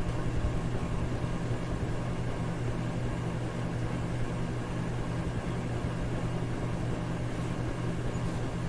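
Electric fan running steadily: an even rush of air over a low motor hum.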